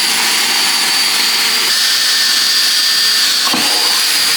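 Power drill running steadily at speed, boring a bolt hole through timber with a poor drill bit. Its whine sits at a few fixed pitches, with a short change in the sound about three and a half seconds in.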